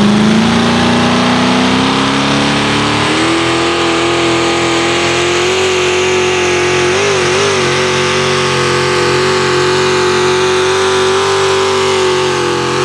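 Diesel engine of a four-wheel-drive pulling truck at full throttle under load dragging the sled. Its revs climb over the first three seconds, then hold steady with a brief waver near the middle.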